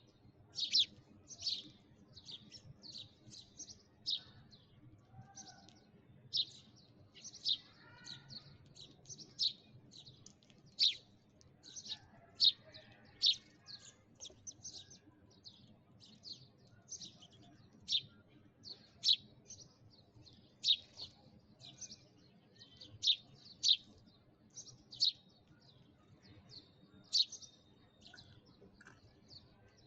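Sparrows chirping: a steady run of short, sharp, high chirps, about one or two a second, some much louder than others.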